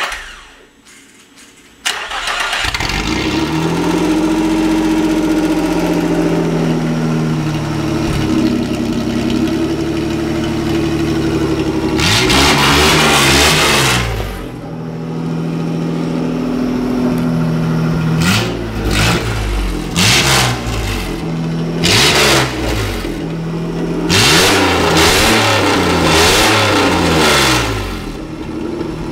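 Nissan 3.0 L VG30 V6 from a 1985 Pathfinder, run with no muffler or catalytic converter, starts up about two seconds in and settles into a loud, open-exhaust idle. It is revved several times, a long blip, then a series of short blips and a longer run of revs near the end, before dropping back to idle.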